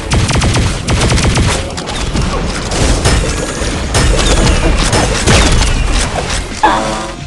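Fireworks going off in a rapid, continuous barrage of cracks and bangs, thinning out toward the end. A brief pitched sound is heard just before the end.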